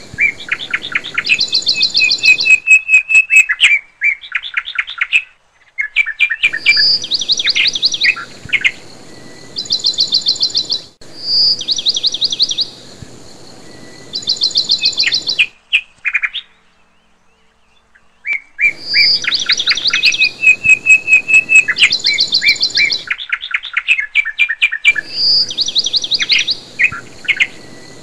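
Birdsong of rapid high chirps and trills, the same phrases repeating over and over like a loop, breaking off abruptly into silent gaps a few times.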